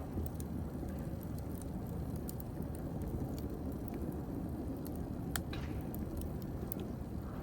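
Wood fire burning in a fireplace: a steady low rumble of flames with scattered sharp crackles and pops, the loudest pop about five and a half seconds in.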